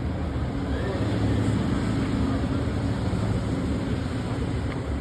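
Motor vehicle engines running: a steady low rumble, with a faint steady tone through the middle.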